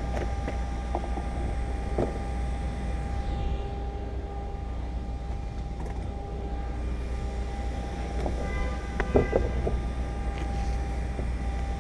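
Steady low background hum with a few light clicks and knocks as the plastic clips of a car's exterior trim molding are pressed into place; the loudest knocks come about nine seconds in.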